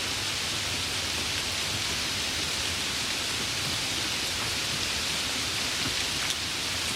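Steady rain falling, an even hiss with a few separate drops heard against it.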